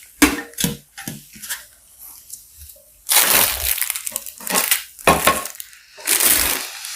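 Parts of a blender being handled and fitted together by hand: a few sharp knocks and clicks, then longer stretches of crinkly rustling and scraping.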